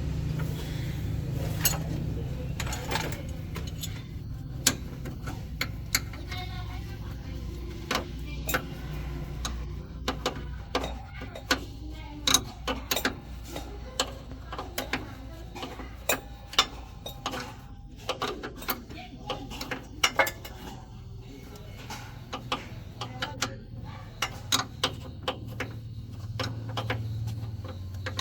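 Scattered sharp metallic clicks and knocks of hand-tool work on a heavy truck's clutch and gearbox, over a steady low hum that eases after the first few seconds and swells again near the end.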